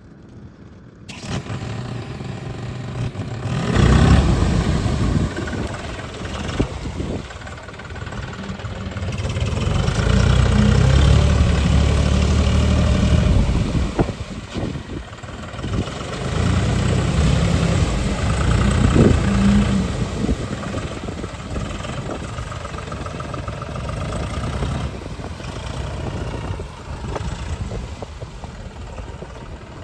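Tractor engine running and revved in several surges, with a few sharp clanks.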